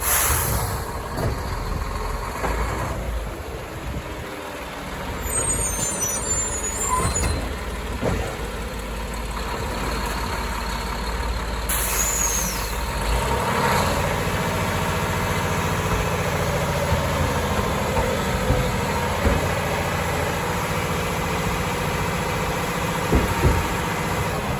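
Labrie Automizer garbage truck's biodiesel engine running, with a sudden hiss of air brakes right at the start and another about halfway through, the second with a brief falling squeal.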